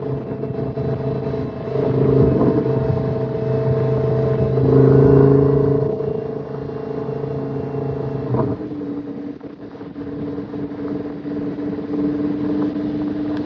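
Car engine running with a steady hum, swelling in level around two and again five seconds in. About eight and a half seconds in, a short click comes and the pitch of the hum shifts to a new steady note.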